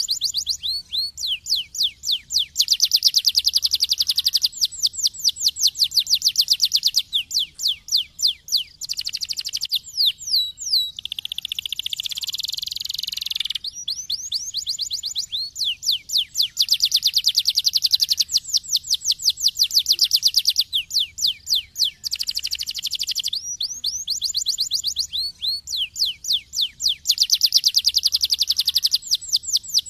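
Domestic canary singing: long, fast trills of rapidly repeated sweeping notes, phrase after phrase, with a harsher buzzing phrase about a third of the way through.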